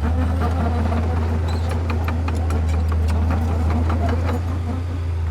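Diesel engine of heavy earthmoving machinery running steadily with a deep drone, with irregular clicks and clanks over it.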